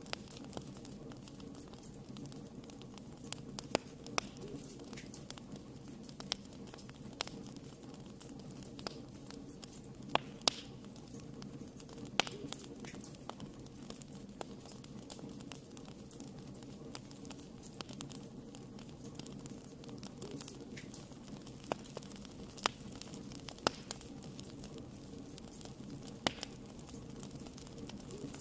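Wood fire burning in a fireplace: a steady low rumble of the flames with irregular sharp crackles and pops, a few clustered together every second or two.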